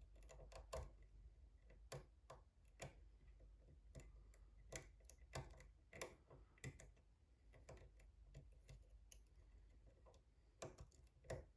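Faint, irregular metallic clicks of a lock pick and tension wrench working in a pin-tumbler lock, with a small cluster of clicks near the end.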